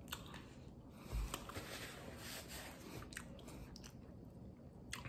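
A person chewing a mouthful of pizza, faint and wet, with scattered small clicks and a soft low thump about a second in.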